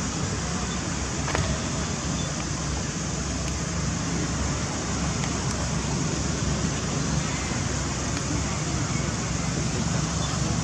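Steady rushing background noise with a low hum underneath, like wind or distant traffic.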